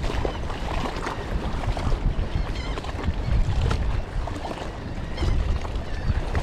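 Wind buffeting the microphone: a steady, rumbling rush that is heaviest in the low end, with a few faint high chirps around the middle.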